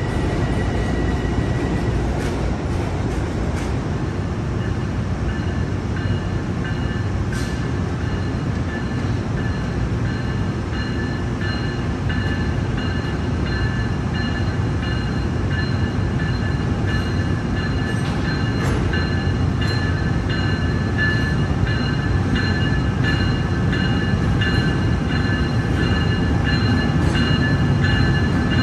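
Passenger train moving on the station track: a steady low rumble, joined about ten seconds in by a high, steady whine with overtones that grows stronger, and a few faint clicks. The sound slowly gets louder toward the end.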